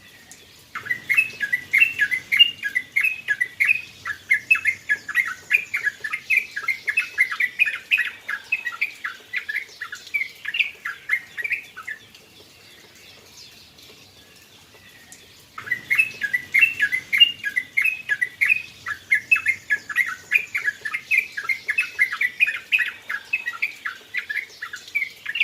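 Sooty-headed bulbul (trucukan) singing a fast, dense run of chirping notes for about eleven seconds, falling quiet for a few seconds, then starting again.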